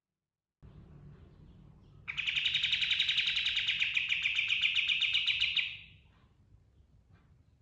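Kapas tembak bulbul (katem) singing a loud, rapid rolling trill of fast repeated notes that starts about two seconds in and lasts about three and a half seconds, over a faint background hiss.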